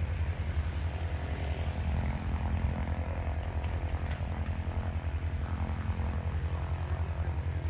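Avro Lancaster's four Rolls-Royce Merlin V12 piston engines running at low power as the bomber taxis, a steady low drone with a rapid pulse.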